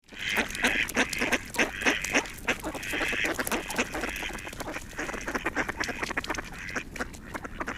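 Birds calling: repeated short calls over a scatter of many short clicks.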